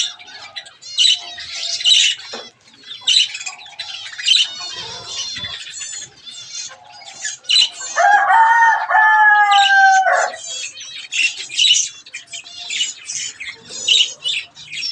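A flock of aviary birds, mostly budgerigars, chattering and squawking in a dense stream of short, high calls. About eight seconds in, a louder, lower call is held for about two seconds, slightly falling.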